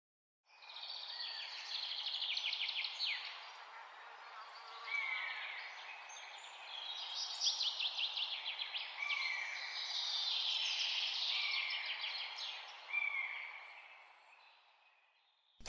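Birds chirping and trilling over a steady background hiss, with repeated quick trills and short falling calls. It starts shortly after the beginning and stops abruptly around fourteen seconds in.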